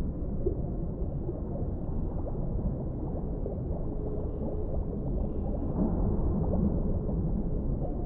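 Underwater ambience: a steady low rumble of deep water with faint bubbling gurgles through it.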